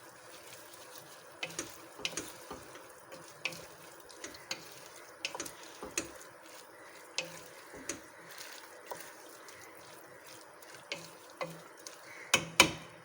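A spoon stirring vegetables and masala paste in a pot, clicking and scraping against the pan at irregular intervals over a faint, steady sizzle, with two louder knocks near the end.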